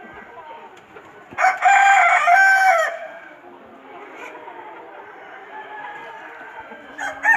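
Natu Kodi country rooster crowing once, a loud call of about a second and a half starting about a second and a half in, with a second crow beginning near the end. Faint clucking of chickens runs underneath.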